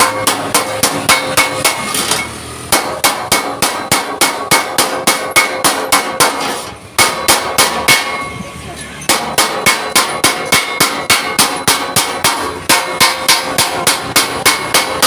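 Hammer beating thick sheet-steel plate in quick runs of about five blows a second, with a few short breaks, the metal ringing between blows.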